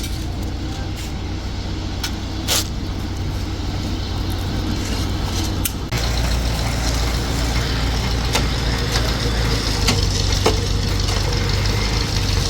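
Engine of construction machinery running steadily, growing a little louder about halfway through, with a few sharp knocks over it.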